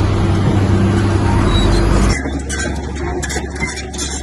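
Heavy diesel engine of an earthmoving machine running steadily, cut off abruptly about two seconds in and replaced by a quieter, rougher machine sound with a low steady hum.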